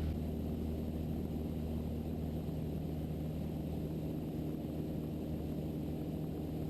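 Mooney M20E's four-cylinder Lycoming engine and propeller droning steadily in flight, a low, even hum with no change in power.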